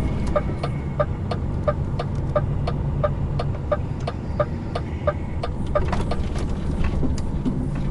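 Truck cab turn-signal indicator ticking evenly, about three ticks a second, over the low steady running of the lorry's diesel engine as the truck turns in.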